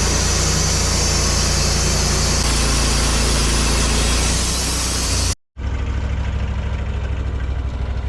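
Sawmill's engine running at speed with a steady high hiss over its low note. It cuts off abruptly about five seconds in, then the engine is heard idling with a regular low pulse.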